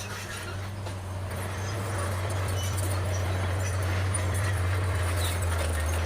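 Bulldozer's diesel engine running steadily with a low hum, growing a little louder about two seconds in.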